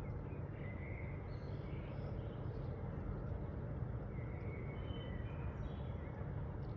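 Wild birds giving faint, short chirps and calls now and then over a steady low background rumble of outdoor noise.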